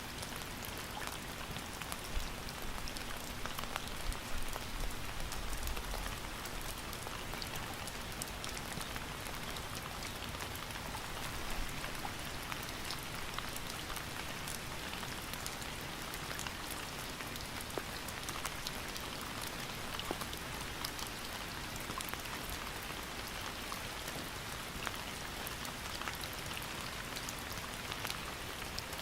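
Steady rain falling, with the patter of many individual drops striking a surface, and a faint low rumble a few seconds in.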